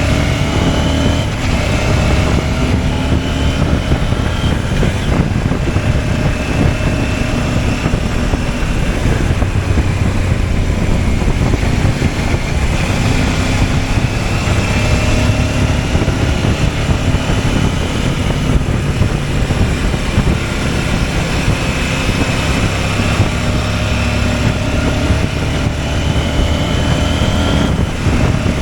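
CFMOTO 800MT's parallel-twin engine running while the motorcycle is ridden, its pitch rising and falling gently with the throttle, under a heavy rush of wind and road noise.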